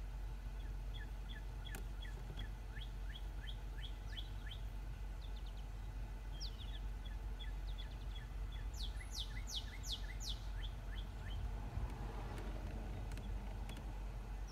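Birds chirping in short, repeated calls, with a quick run of about five high, sharp downward-sweeping calls around nine seconds in, over a steady low hum.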